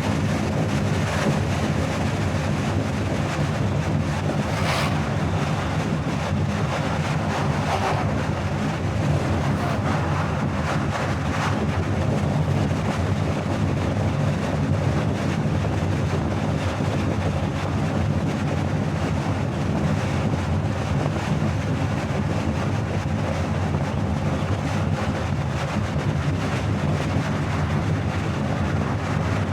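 Steady road noise of a car driving at highway speed: a low tyre and engine drone with wind rush, with a few brief swells about five, eight and eleven seconds in.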